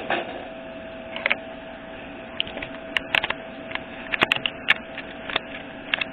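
Irregular light clicks and knocks of hard objects being handled on a workbench, coming more often in the second half, over a steady faint hum.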